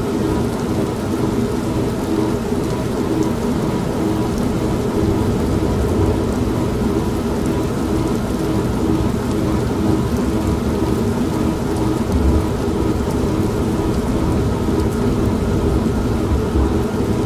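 An old manual washing machine running with a steady hum, mixed with steady rain and low rolling thunder that swells briefly about twelve seconds in.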